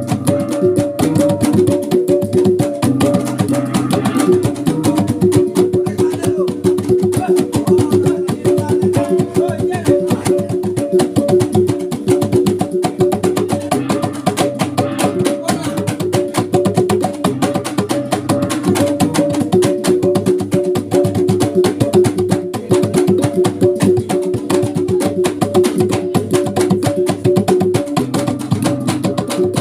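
Traditional Sumbanese gong and drum music: rapid, steady drumbeats under repeating patterns of ringing gong tones, played without a break.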